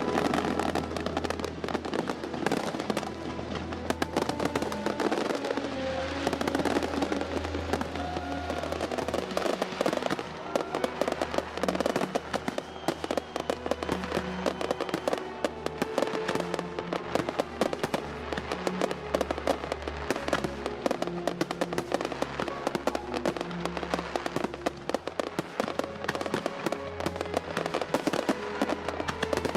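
A dense, unbroken run of fireworks sound effects: many sharp bangs and crackles, mixed with music that has a steady bass line and held notes.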